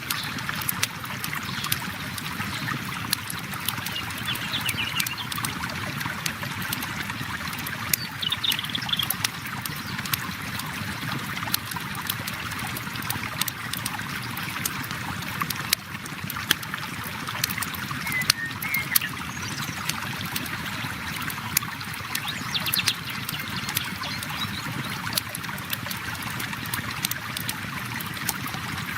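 A river flowing steadily, with a campfire crackling in frequent sharp pops and snaps over it.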